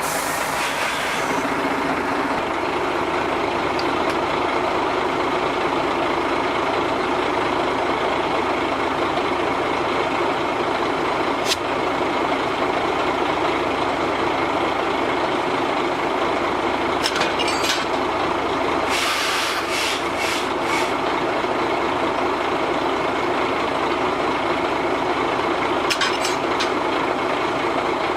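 Diesel locomotive engine running steadily, with a few sharp clicks and a burst of air hissing about two-thirds of the way through.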